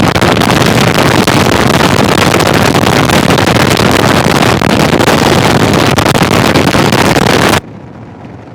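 Severe wind noise on the Sena 10C Evo's fully open external microphone, which cuts in while a Garmin GPS instruction plays and the helmet microphone is disabled. It is very loud and stops abruptly near the end, giving way to the much quieter ride sound from the helmet microphone.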